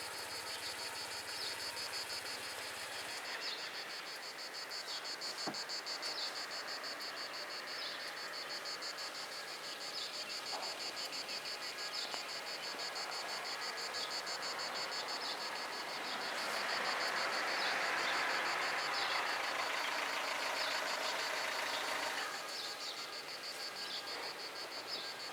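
Cicadas buzzing in a steady, rapid pulse, with a vehicle passing for several seconds past the middle.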